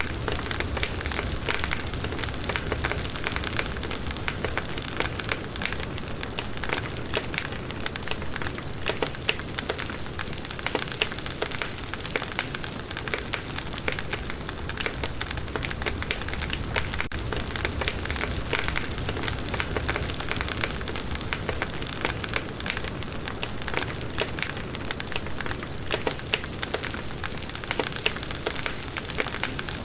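Firewood burning in a campfire: dense, steady crackling with many sharp little pops and snaps.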